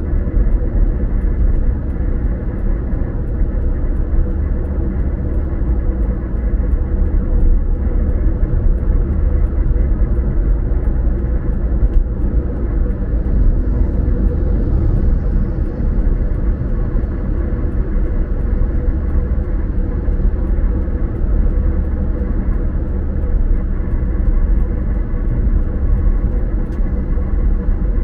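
Steady low road rumble inside a moving car: tyre and engine noise held at an even cruising speed.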